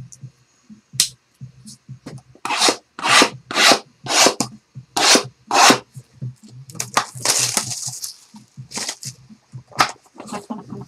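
Sealed trading-card boxes being unwrapped and opened: a run of sharp crackling rips of plastic wrap and cardboard about twice a second, then a longer rustle and a few clicks near the end.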